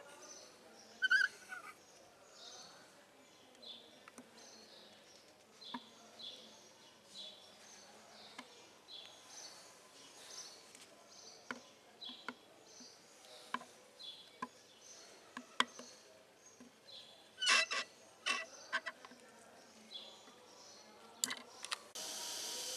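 A small bird chirping again and again in the background with short, high calls. A quick cluster of sharp clicks comes about three-quarters of the way through, and a steady hiss comes in at the very end.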